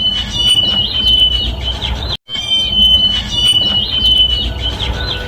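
Harris's sparrow singing: a long, clear whistled note followed by a few quick warbled notes. The phrase comes twice, split by a brief break in the sound.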